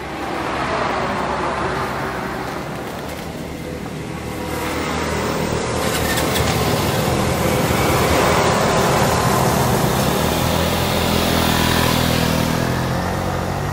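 Motorbike engine running while riding, under a steady rush of wind and road noise that grows a little louder about halfway through.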